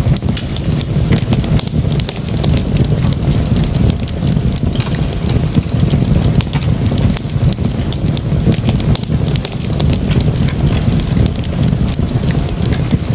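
Wood fire crackling, with many small pops and snaps over a steady low rumble of burning.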